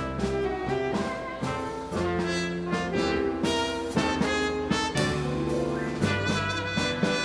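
Live dance orchestra playing a Latin dance tune in the 1930s–40s style: a horn section holding chords over a steady rhythm of percussion strokes.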